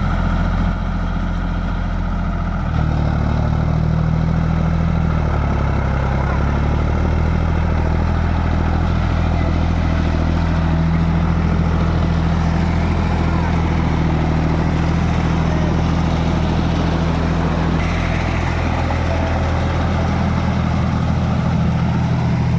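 Tractor diesel engine running steadily. Its pitch and loudness step up about three seconds in, then waver briefly a few seconds later.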